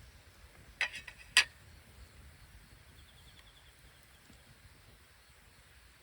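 A few quick sharp clicks, then a single louder click about a second and a half in, over faint outdoor ambience. A faint, rapid ticking trill follows around three seconds in.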